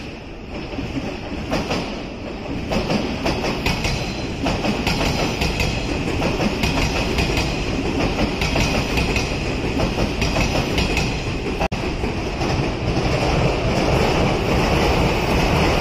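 Odakyu electric trains passing close by, a commuter train and then a red Romancar limited express, their wheels clicking and clacking over rail joints over a steady rolling rumble that grows louder.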